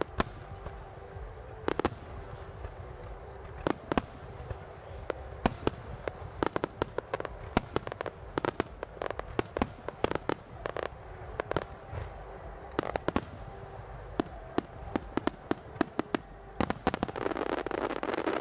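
Aerial fireworks shells bursting in rapid, irregular succession: many sharp bangs and pops, often in quick clusters. Near the end the sound thickens into a dense, continuous rush.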